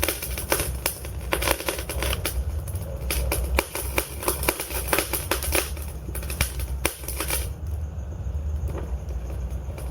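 Wood fire crackling, with many irregular sharp pops over a steady low rumble of the flames. The pops thin out about three-quarters of the way through.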